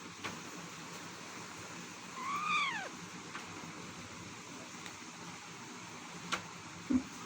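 Indian ringneck parakeet giving one short call a little over two seconds in, rising and then falling in pitch. A few faint clicks and a short low thump come near the end.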